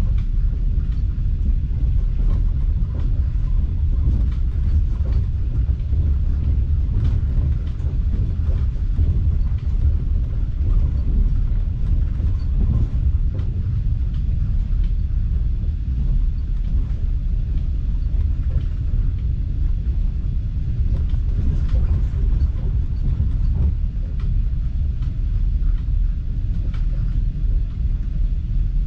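Passenger train carriage rolling along the track, heard from inside the car: a steady low rumble with faint scattered clicks.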